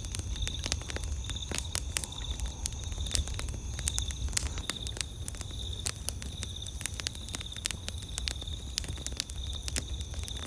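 Wood campfire crackling with many irregular sharp pops, over insects chirping in a steady pulsing trill and a low steady rumble underneath.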